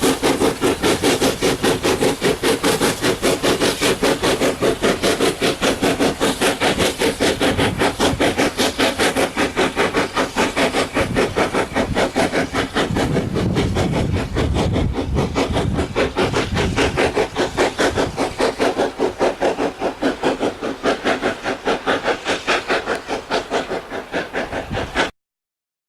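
Bagnall 0-6-0ST saddle tank steam locomotive working a train, its exhaust beats coming in a rapid, even chuff of about five a second. The sound cuts off suddenly near the end.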